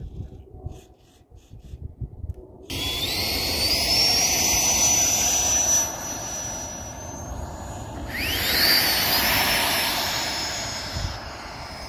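Electric ducted fans of a Freewing F-22 RC jet model spooling up with a high whine: it starts suddenly about three seconds in, rising in pitch and holding, eases off around six seconds, then rises again steeply near eight seconds, levels off and fades.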